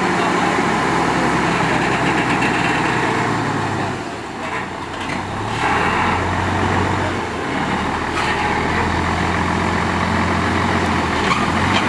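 A motor vehicle engine running steadily under dense outdoor noise, easing off briefly about four seconds in and then coming back.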